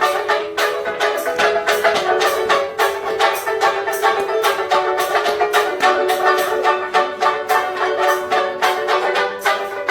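Instrumental break of a live ukulele song: fast, even strumming with a held melody line over it.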